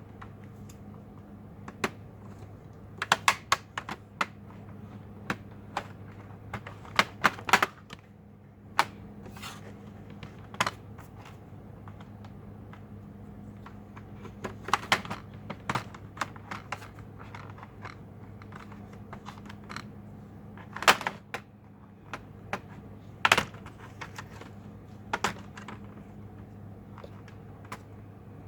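Irregular sharp clicks and taps, several in quick clusters, from hands working on an HP 15-R029WM laptop's plastic case and parts during disassembly. A faint steady low hum runs underneath.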